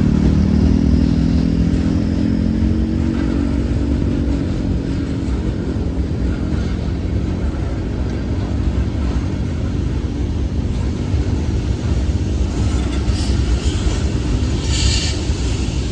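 Diesel locomotive engine running as a train passes, its engine note slowly dropping in pitch over a steady low rumble, with brief hissing sounds near the end.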